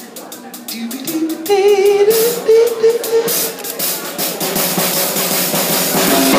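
Live band music: a drum kit with snare, rimshots and cymbals behind a melody that climbs in steps through the first few seconds. The band grows fuller about two seconds in, and a lower bass line comes in near the end.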